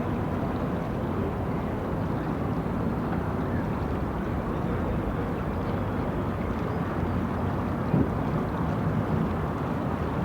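City street ambience: a steady low rumble of traffic, with a single short knock about eight seconds in.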